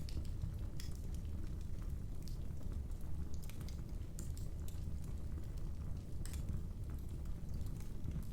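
Wood fire crackling: scattered, irregular sharp snaps and pops over a steady low rumble of the burning fire.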